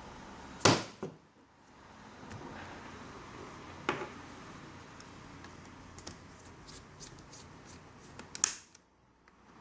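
Hands working on a netbook's plastic case and parts: a few sharp clicks and knocks, loudest near the start and near the end, with a run of light ticks in between.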